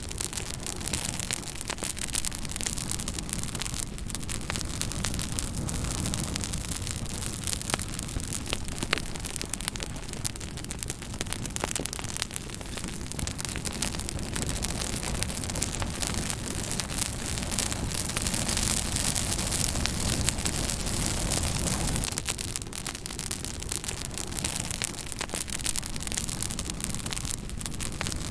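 Fire crackling: a dense, irregular run of small sharp pops and snaps over a steady hiss and a low rumble.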